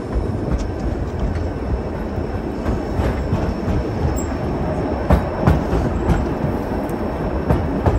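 White Pass & Yukon Route narrow-gauge train rolling along, heard from aboard: a steady rumble of wheels on rail with scattered clicks and knocks from the track.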